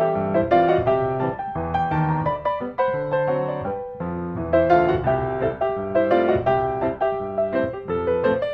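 Background piano music: a gentle melody of struck notes with chords beneath.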